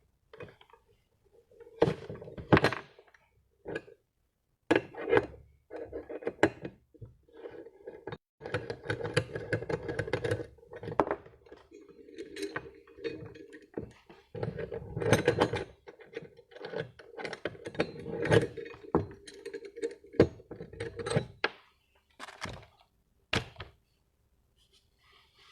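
Metal tools and parts being handled: repeated knocks and clanks with bouts of rattling clatter.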